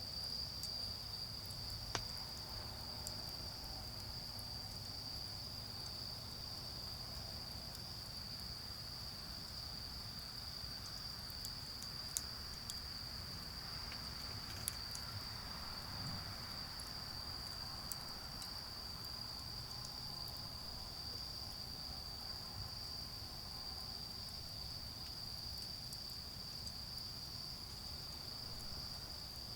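A steady, high-pitched chorus of autumn insects such as crickets, with a few sharp pops from a charcoal fire about 2, 12, 15 and 18 seconds in.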